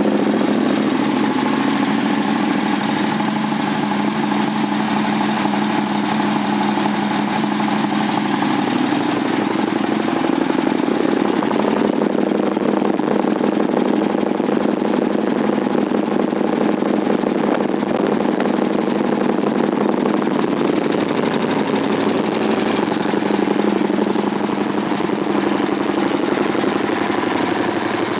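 2007 Aprilia Tuono 1000R's 998 cc V-twin engine idling steadily just after starting, through twin LeoVince aftermarket exhausts.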